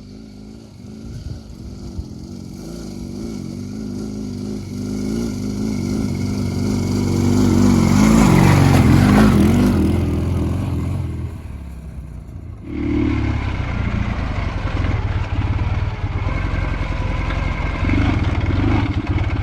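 Dnepr sidecar motorcycle's flat-twin engine labouring up a rough track, its engine speed wavering and building to the loudest point about eight to nine seconds in before easing off. About two-thirds of the way through the sound switches abruptly to a steadier, closer engine running.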